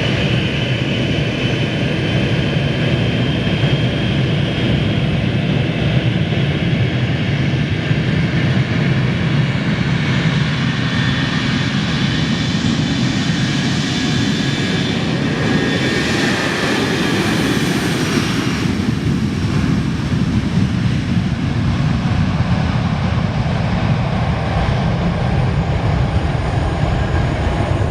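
Airliner taking off, its engines at takeoff power on the runway. The sound swells to its loudest about two-thirds of the way through as the plane passes, and its high whine drops in pitch as it goes by.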